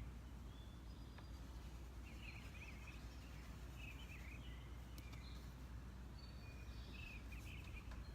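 Faint birds chirping in short twittering phrases every second or so, over a steady low outdoor rumble.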